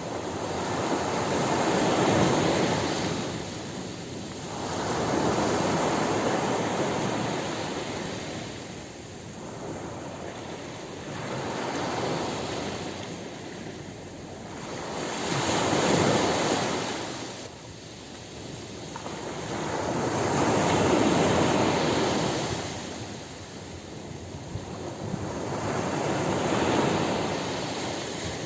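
Ocean surf breaking on a beach: waves wash in and draw back in slow swells, one every four to six seconds.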